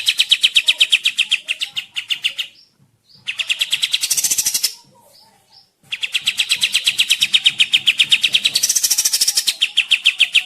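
A songbird singing a harsh, rapid trill of repeated notes, about ten a second, in three long bouts separated by short pauses.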